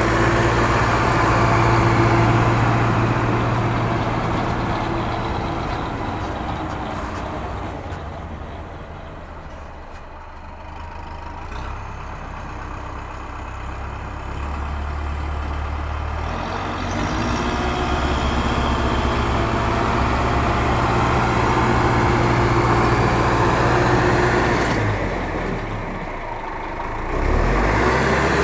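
A vehicle engine running steadily. It fades down about a third of the way in, builds back up, and dips briefly again near the end.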